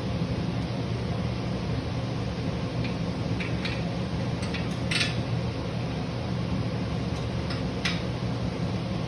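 Steady hum of a fan running, with a few short metallic clinks of hand tools during the engine work, the sharpest about five seconds in and another near eight seconds.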